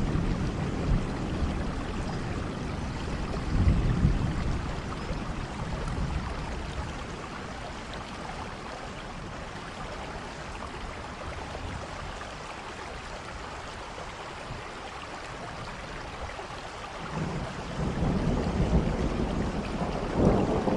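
Steady rain with low rolling rumbles of thunder, swelling about four seconds in, fading, then building again near the end.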